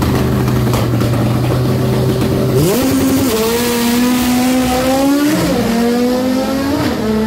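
Drag-racing car engine running steadily at the start line, then revving up sharply at launch about two and a half seconds in. It pulls hard down the strip, its pitch dipping and climbing again at two gear changes.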